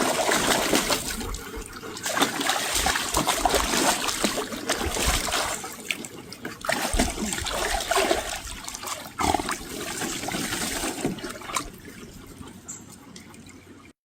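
Pool water splashing and trickling as a dog moves about in a swimming pool, in uneven surges that die down toward the end.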